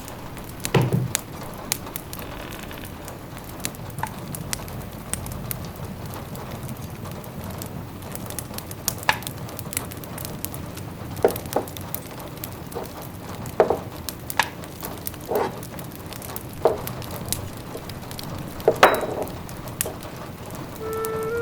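Wood fire crackling in a fireplace, with scattered sharp pops, a few of them louder, over a steady soft hiss of rain.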